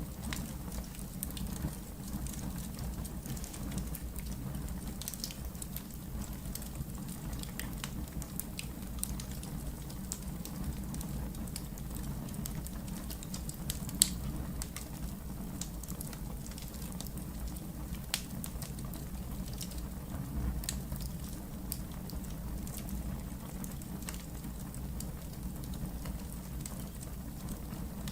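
Fire burning in a fireplace, crackling: a steady low rumble with scattered pops and snaps, one sharper pop about halfway through.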